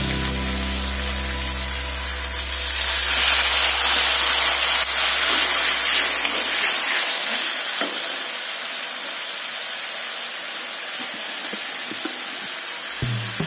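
Chili, shallot and garlic sauce with oyster sauce and sweet soy sauce sizzling in a hot wok as a metal spatula stirs it. The sizzle swells loudly about two seconds in, then eases to a steadier sizzle after several seconds, with a few light spatula clicks.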